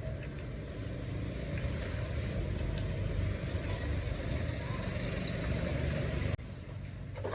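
Steady machine running noise with a heavy low rumble, cut off suddenly about six seconds in and followed by a lighter hum.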